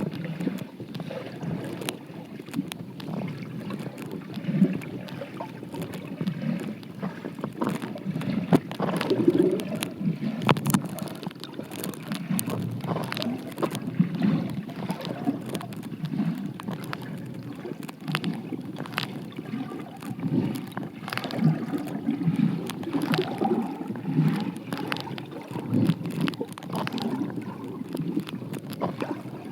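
Stream water heard through an underwater microphone: a muffled, low, uneven churning with many scattered sharp clicks and ticks.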